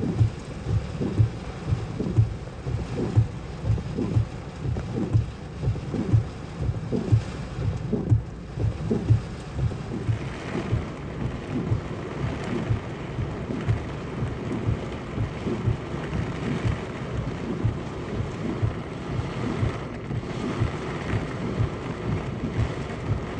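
Heavy thunderstorm rain heard from inside a car: a steady hiss of downpour with irregular low thumps and rumbling, several a second.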